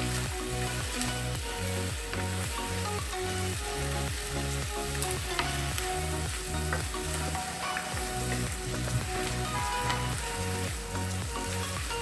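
Chopped onion, tomatoes, cashews and whole spices sizzling in butter in a kadai as they are stirred with a wooden spatula, with a few light knocks of the spatula on the pan. A background tune with a steady low beat plays underneath.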